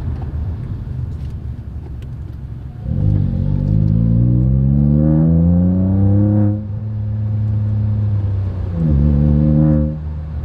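Ford Fiesta EcoBoost three-cylinder engine breathing through a Cobra cat-back performance exhaust, heard from inside the cabin: a low rumble while cruising, then about three seconds in it gets louder with pitch rising as the car accelerates, drops off suddenly around six and a half seconds, and comes back for a shorter loud burst near the end.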